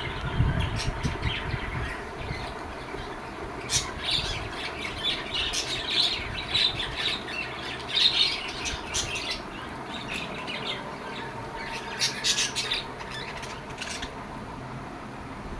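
Lovebirds squawking in many short, sharp calls, busiest from about four seconds in and stopping shortly before the end.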